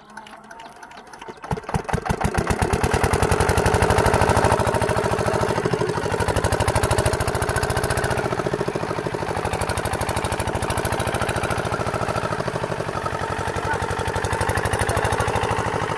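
The diesel engine of an 8 hp water pump set catching about a second and a half in, picking up speed over the next second or two, then running steadily with an even, rapid firing beat.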